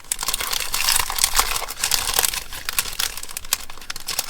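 Paper ephemera being handled and shuffled, rustling and crinkling with dense, irregular crackles throughout.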